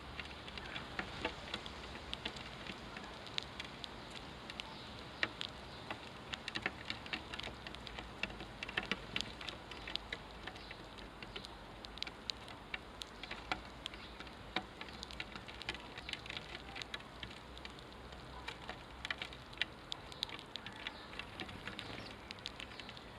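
Sparrows pecking at scattered seed: a run of irregular quick clicks and taps, several a second, faint and unevenly spaced.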